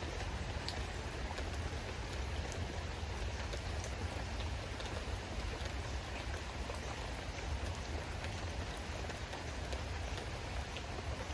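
Steady rain falling, with scattered drops ticking on surfaces over a low rumble.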